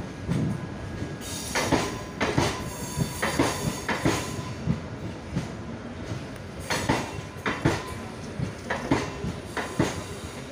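MEMU electric multiple-unit train pulling out slowly, its wheels clacking over the rail joints in close pairs, with a steady rolling rumble underneath.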